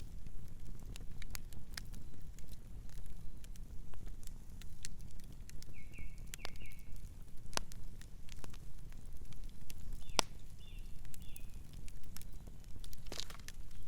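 Campfire crackling, with irregular sharp pops and snaps over a low steady rumble. A small bird gives brief chirps twice, a little under halfway through and again later.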